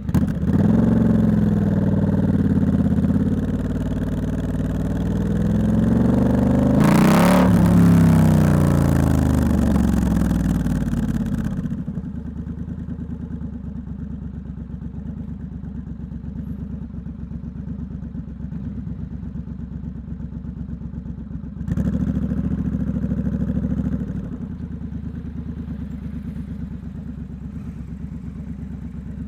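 Triumph Scrambler 1200 X parallel-twin engine through a loud aftermarket Hitchcox exhaust, pulling hard with the pitch rising and falling through the gears. About twelve seconds in it drops to a steady low idle, with a short blip of throttle near the end.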